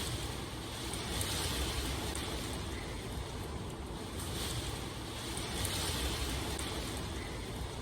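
Steady rain, an even hiss, swelling louder in the upper register about every three to four seconds.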